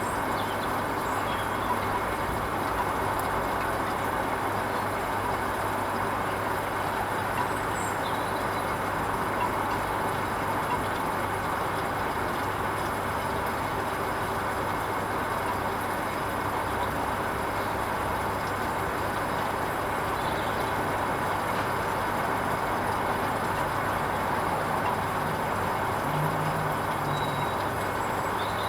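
Hoover Vision HVP16 washing machine running steadily on its Silks 30 programme: an even mechanical running noise with a constant low hum.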